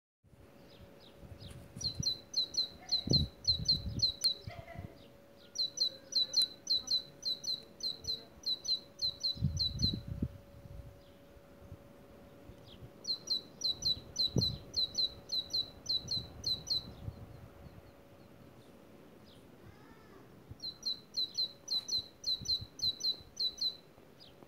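A bird singing in four bouts of fast, evenly repeated high chirps, each bout lasting a few seconds, with short pauses between them.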